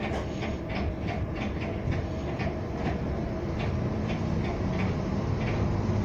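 Siemens U2 light rail car running along the track, a steady low rumble with frequent irregular clicks and rattles, growing slightly louder.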